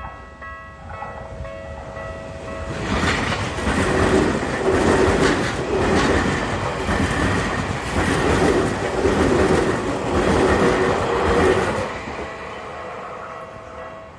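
A Tokyu Toyoko Line train passes over a level crossing and is loudest for about eight seconds in the middle. The crossing's electronic warning bell rings steadily at the start and is heard again as the train fades near the end.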